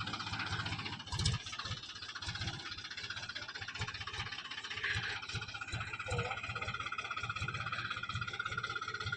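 Diesel tractor engine running, with a steady beat of low thuds from its firing strokes under a constant hum.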